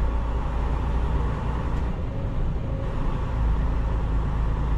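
Semi-truck diesel engine running steadily at low speed while the truck creeps through a parking lot: a continuous, even, low drone.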